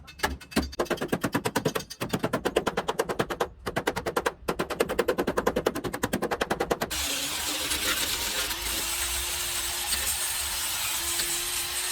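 A power tool hammering rapidly at about a dozen blows a second for about seven seconds, then stopping suddenly, followed by a steady hissing noise with a faint low hum.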